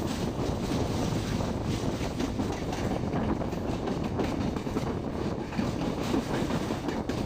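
Moving passenger train heard on board: a steady rumble of wheels running on the rails.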